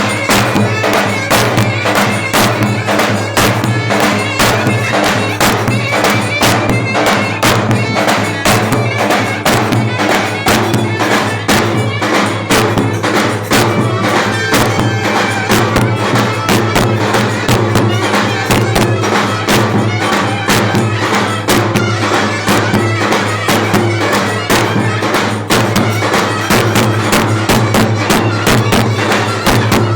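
Turkish folk dance music on clarinet and davul: a reedy clarinet melody over a steady, fast beat of davul strokes.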